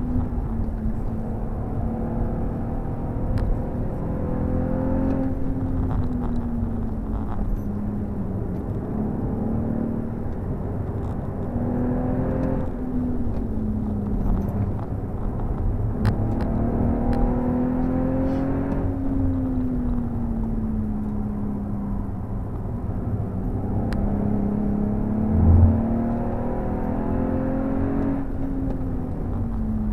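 BMW M135i's turbocharged 3.0-litre straight-six with an M Performance exhaust, heard from inside the cabin at speed, its note rising and falling several times over road and tyre noise. A brief low thump about 25 seconds in.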